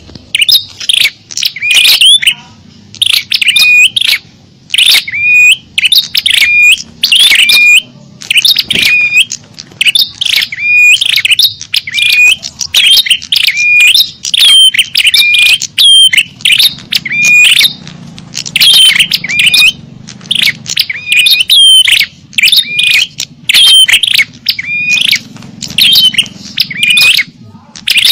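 Bird-lure recording of small songbirds calling: loud, quick high chirps and twitters, one after another with hardly a break.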